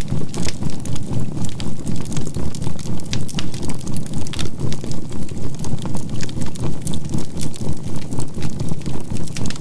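Crackling campfire with scattered sharp pops over a low rumble, mixed with a steady 528 Hz healing tone and binaural beats; the whole mix pulses evenly about four times a second.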